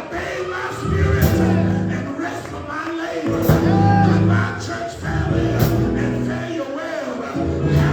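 Live church band playing an upbeat song with singing, a bass line and regular cymbal or tambourine hits.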